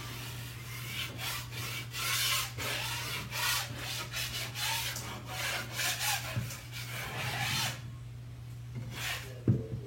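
Drywall knife scraping over dried joint compound on a wall, knocking down the ridges before the next coat: a run of short, rough strokes that stop about eight seconds in, followed by a sharp tap near the end.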